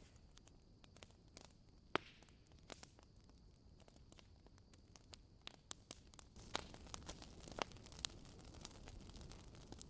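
Wood fire crackling in a fireplace: scattered sharp pops and snaps, with one louder pop about two seconds in. From about six and a half seconds the snaps come more often over a faint hiss.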